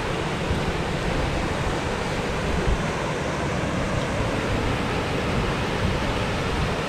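Steady rush of fast-flowing brook water tumbling over rocks, an even, unbroken roar.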